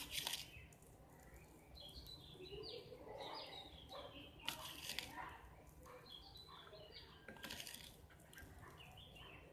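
Faint birds chirping in the background, with a few short rustles from hands handling the flower and tea leaves on the table.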